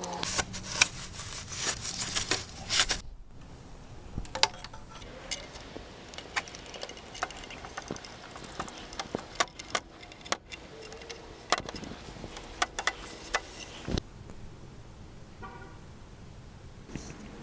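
Irregular sharp clicks and metallic clinks of hand tools and small parts being handled, busiest in the first few seconds.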